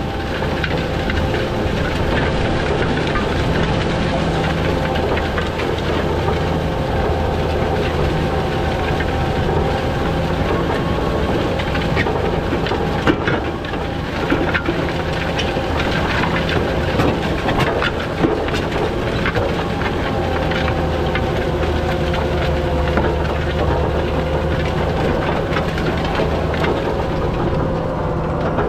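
John Deere 7730 tractor's six-cylinder diesel engine running steadily, with scattered rattles and clanks over the engine's drone.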